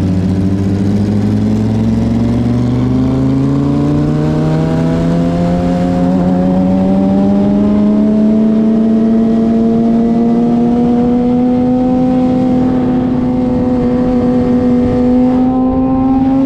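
Suzuki GSX-R sportbike's inline-four engine pulling steadily without a gear change, its pitch climbing slowly and evenly as the bike gains speed.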